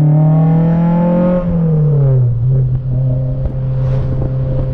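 Honda four-cylinder car engine pulling under acceleration. Its pitch rises for about a second and a half, drops away about two seconds in, then settles to a steady drone.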